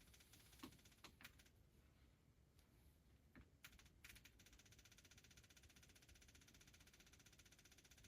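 Near silence: a few faint clicks, then from about four seconds in a faint, fast, even ticking.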